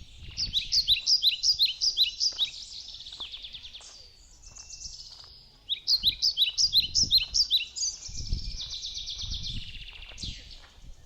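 A songbird singing two bursts of rapid, repeated down-slurred high notes, each about two and a half seconds long, with a softer, buzzier phrase after the second.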